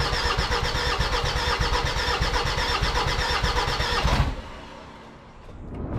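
Starter cranking the rebuilt OM612 2.7 CRD five-cylinder diesel, the engine turning over in an even rhythm without catching. The cranking stops about four seconds in, then starts again near the end.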